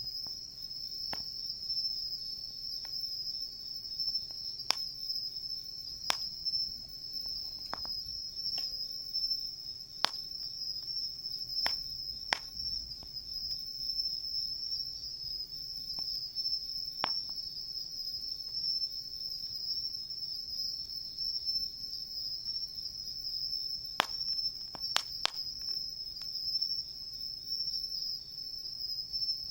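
A steady, high-pitched chorus of insects calling, with a wood campfire crackling in sharp, scattered pops, including a quick cluster of three pops near the end.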